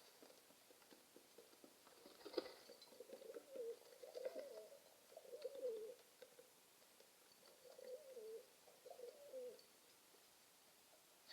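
Pigeon cooing faintly: about four low, wavering coo phrases spread through, with a single sharp click about two seconds in.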